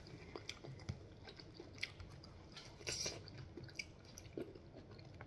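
Close-up chewing and wet mouth sounds of a person eating with their fingers, with scattered small clicks and smacks; a louder cluster of smacking about three seconds in.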